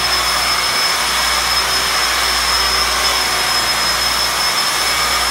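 Electric rotary polisher (politriz) running steadily with its pad pressed against a plastered wall, buffing colourless carnauba wax to a shine on a burnt-cement finish. It gives a steady high motor whine that does not change in pitch.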